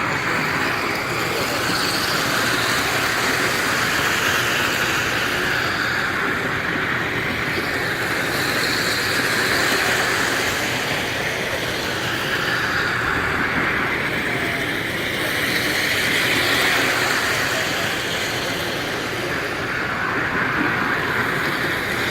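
Model electric train running around its track, a steady whirring clatter that swells and eases every six or seven seconds as it circles past, over a steady background din.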